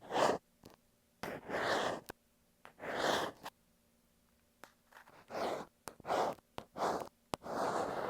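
Ear pick scraping and rubbing against an earphone microphone in about seven separate strokes, each under a second, with small clicks between them.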